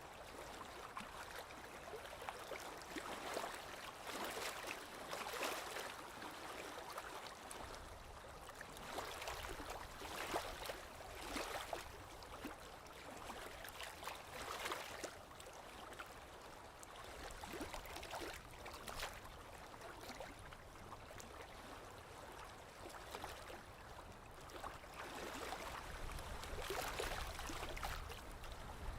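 Small lake waves lapping on the shore, soft splashes coming every second or two. A low rumble rises near the end.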